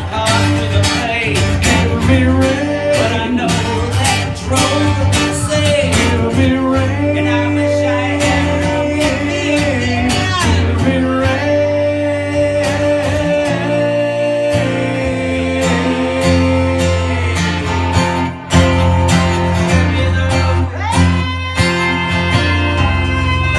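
Live band music led by guitar, strummed steadily under sustained melodic lines with some sliding notes, in a country-blues style; no lyrics are heard.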